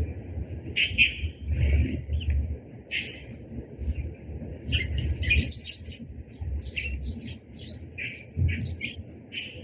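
Sparrows chirping in a flock: many short, quick chirps that grow busier about halfway through.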